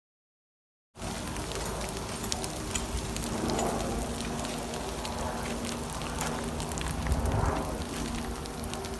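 Forest fire burning: a steady rushing noise full of small crackles, starting suddenly about a second in, with a faint steady low hum underneath.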